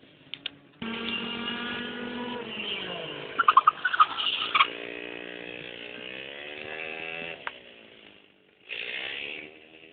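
Motorcycle engine running, its pitch falling and then slowly rising again as the revs change, with a cluster of sharp, loud bursts in the middle.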